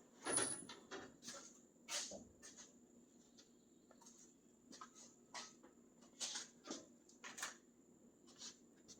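Scattered light clicks and knocks of hand-tool work in a truck cab's dash, a flathead screwdriver poking and prying at parts. The loudest knocks come just after the start and about two seconds in, with a quieter spell around three to four seconds.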